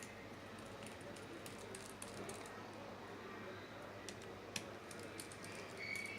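Faint, scattered small clicks and ticks of a smartphone's plastic and metal parts being handled and pried during disassembly, with a short squeak near the end.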